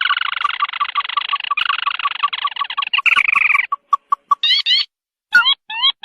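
Lure recording of crake calls (burung tikusan): clipped notes repeating about five times a second under a dense, shrill trill that stops a little past halfway, then a few short upward-sweeping call notes.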